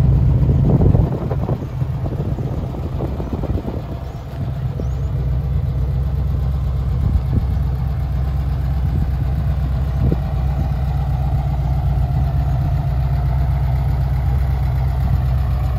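Air-cooled Volkswagen flat-four engine of a Meyers Manx Tow'dster dune buggy idling steadily.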